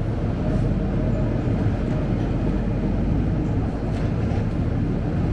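Scania K270UB bus's diesel engine running, a steady low drone with no sharp events.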